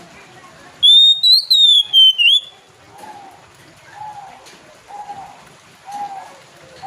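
Oriental magpie-robin (kacer) singing: a loud, clear whistled phrase that slides up and then down and ends in a quick dip. It is followed by four softer, lower notes about a second apart, and the same whistled phrase starts again at the end.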